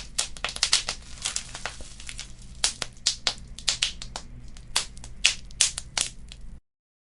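Wood fire crackling: rapid, irregular pops and snaps over a steady low rumble of flames. The sound cuts off abruptly near the end.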